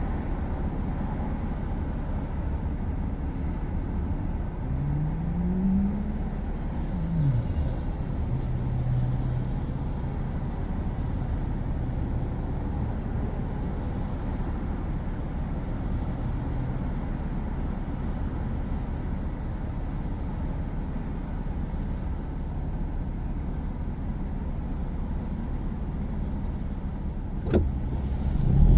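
Car engine and road rumble heard from inside the cabin while driving. The engine note rises about five seconds in and drops away about two seconds later, then runs steadily. A sharp click comes near the end.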